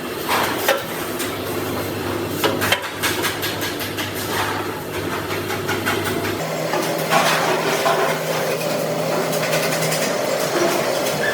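Metalworking sounds: a steady machine motor hum that shifts to a higher pitch about six seconds in, with a few sharp knocks in the first three seconds.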